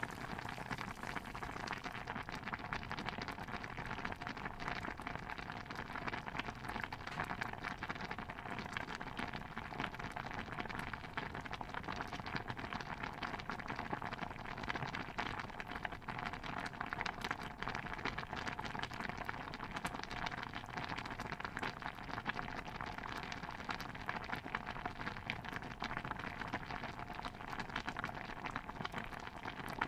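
A pot of stew bubbling steadily: a dense, even stream of small pops and ticks.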